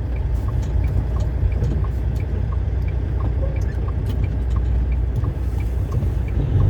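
Semi truck heard from inside the cab while driving: a steady low engine and road rumble, with a faint regular ticking about one and a half times a second.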